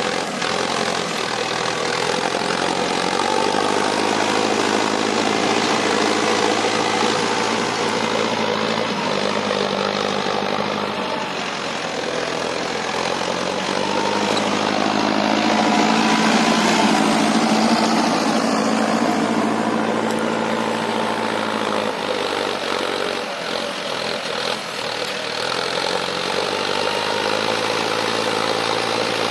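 Mahindra tractor's diesel engine running steadily while pulling a cultivator, growing louder for a few seconds past the middle and then easing back.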